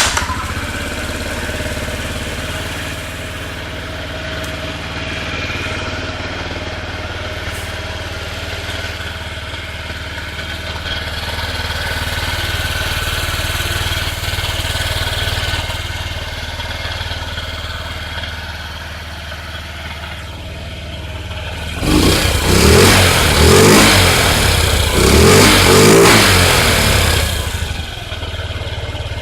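Honda Ruckus 50cc scooter engine catching on its first start-up with a newly swapped motor, then idling steadily. About two-thirds of the way through it is revved several times in quick succession, louder, before dropping back to idle.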